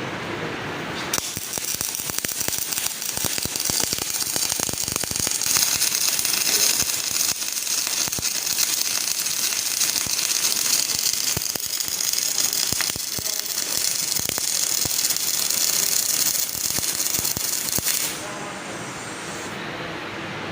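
MIG welding arc on 0.8 mm solid wire under shielding gas, crackling and sizzling steadily while a hot pass is laid on a flat (1G) plate joint. The arc strikes about a second in and cuts off near the end.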